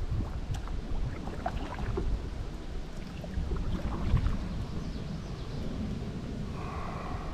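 Kayak paddling: the paddle dipping and water splashing and dripping in short irregular strokes, over a low rumble of wind on the microphone. Near the end a brief pitched sound rises above it.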